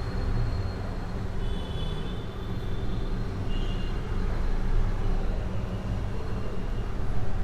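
Steady low rumble of background noise, with faint, short high-pitched tones from a transistor rain-alarm oscillator twice, about one and a half and three and a half seconds in. The sounds come slowly because a 220 µF timing capacitor makes each charge cycle long.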